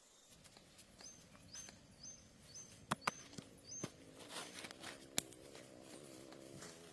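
A small bird chirps about six times in an even series, with a few sharp snaps or cracks among them. A low wavering hum comes in past the middle.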